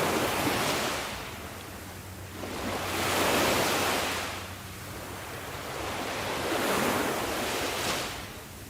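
Sea waves surging and falling back in slow swells, three of them about three to four seconds apart.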